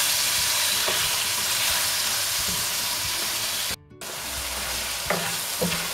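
Chicken liver with ginger-garlic paste and ground spices sizzling in hot oil in a kadhai while being stirred with a spatula during the bhuna stage. The sound cuts out briefly just before four seconds in, then the sizzle resumes a little quieter over a low hum, with a few light knocks.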